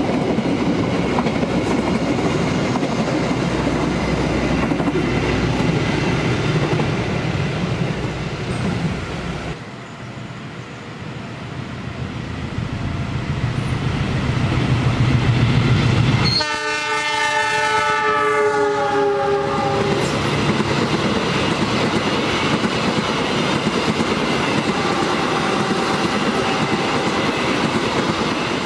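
A diesel multiple unit rumbling and clattering over the rails as it passes. Then a diesel-locomotive-hauled passenger train approaches, its noise building, and sounds a chord horn about halfway through: one blast of about three and a half seconds that drops in pitch as the locomotive passes. The coaches follow, clattering by.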